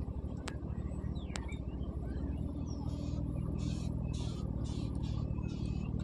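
A steady low engine drone, with birds chirping faintly over it and a run of short high hissing pulses about halfway through.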